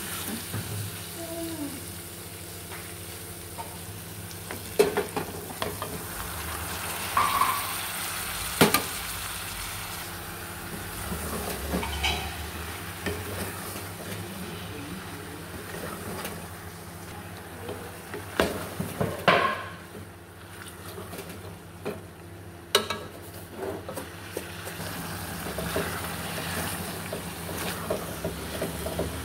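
Diced liver and vegetables sizzling in an aluminium pot while a wooden spoon stirs them, with a few sharp knocks of the spoon against the pot.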